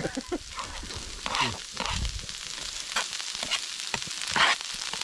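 Vegetables sizzling in a hot wok over a propane burner, a steady frying hiss with scattered light clicks. It swells louder twice, about a second and a half in and near the end, as chopped garlic goes into the hot oil.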